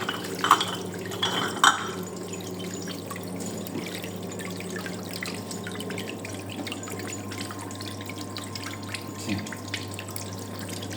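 Repaired Fastwasher running a wash cycle: water splashing and dripping inside it over a steady low hum, with a few knocks in the first two seconds.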